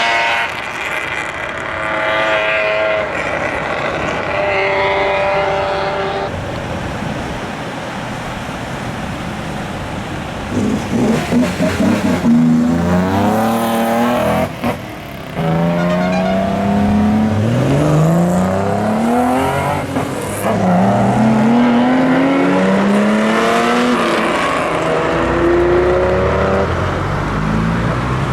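Classic car engines at high revs, held steady at first. From about ten seconds in they accelerate hard, the pitch climbing and then falling back again and again at each gear change.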